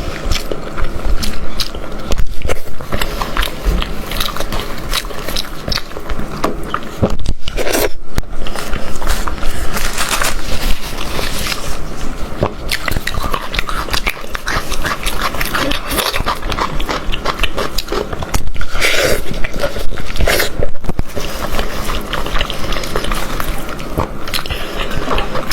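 A person biting and chewing cooked goat head, loud and close up: a dense, continuous run of short clicks from mouth and teeth.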